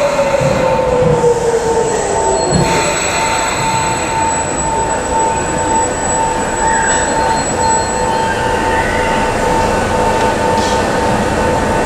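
Sotetsu 8000 series electric train braking to a stop: its motor whine falls steadily in pitch over the first two or three seconds, over a constant rumble and a steady high squeal.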